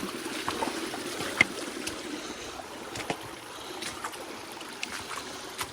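Small spring-fed creek running and trickling over rocks, with scattered light clicks and knocks throughout.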